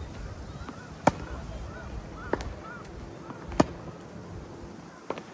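Tennis ball struck back and forth in a rally: four sharp racquet hits about a second and a quarter apart. Between the first hits a bird calls several times in short arched notes, over a low rumble of wind on the microphone.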